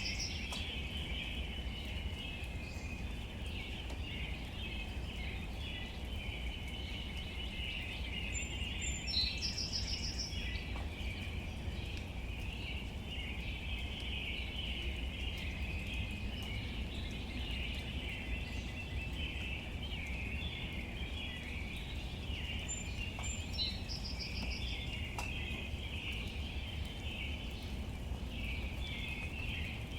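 Outdoor nature ambience: a steady, dense chirping chorus with a low rumble beneath it. A short high bird call, a whistle then a trill, comes twice, about a third of the way in and again near the three-quarter mark.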